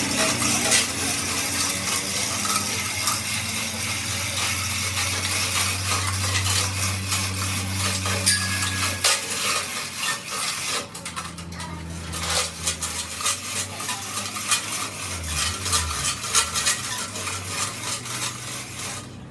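Metal being worked by hand or tool on truck rear-axle parts: a continuous scraping hiss full of small metallic clicks and clinks, with a low steady hum underneath. The scraping breaks off briefly about eleven seconds in, then resumes.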